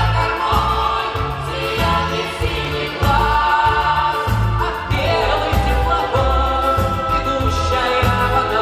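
Vocal ensemble singing a song together, over an accompaniment with a steady bass beat.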